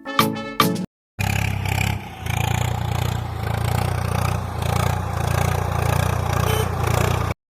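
An engine running steadily with a low rumble and a rough, clattering texture, rising and falling slightly in level. It cuts in suddenly after a short stretch of music and a brief silence, and stops abruptly near the end.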